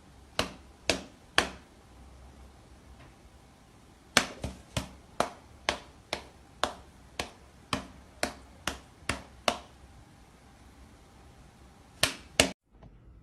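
A series of sharp taps with quiet between them: three about half a second apart, then a run of about a dozen at roughly two a second, then two more near the end.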